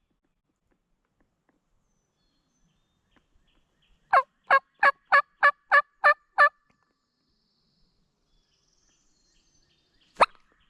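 A run of eight turkey yelps, evenly spaced at about three a second, each note dropping in pitch. Two sharp clicks follow near the end.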